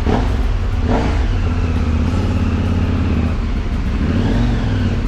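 Motor vehicle engines running in slow traffic, a steady low rumble with a brief rise and fall in engine pitch about four seconds in.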